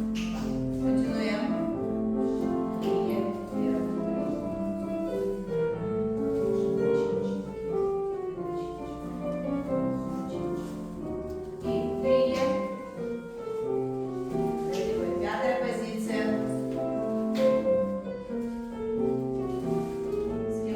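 Classical piano-led music accompanying a ballet exercise, playing continuously with a steady flow of notes.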